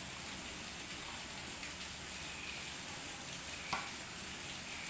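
Steady, even hissing like a sizzle, with one sharp click about three and a half seconds in.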